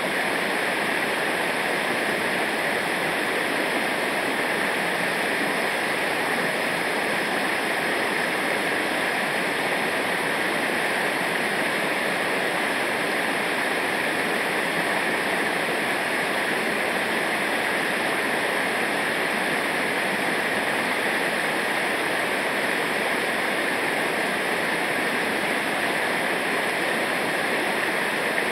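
Steady, unbroken rush of river water tumbling over rapids, loud and even throughout.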